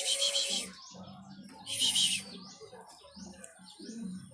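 Small birds chirping repeatedly in quick high rising notes, with two louder short harsh rasping bursts, one at the start and one about two seconds in.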